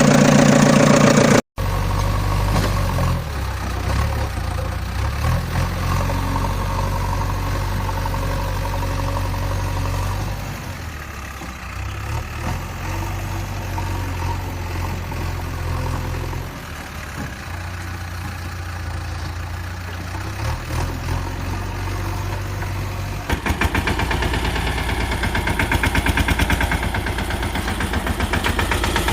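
Diesel engine of a JCB loader or tractor running, its low note shifting now and then as it works. From about three quarters of the way in it becomes louder, with a fast, even chugging beat.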